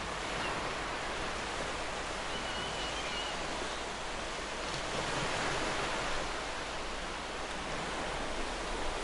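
Ocean surf washing steadily, with a wave swelling a little louder about five seconds in.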